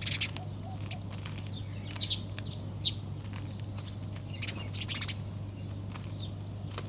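Birds chirping in scattered short high calls over a steady low hum.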